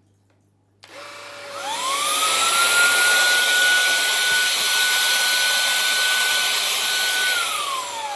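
Cecotec Scoba 2100 Twice cordless stick vacuum switched on about a second in, its motor whine rising over about a second to a steady high pitch over a loud rush of air. Near the end the whine falls away as the motor winds down, while a lower steady hum carries on.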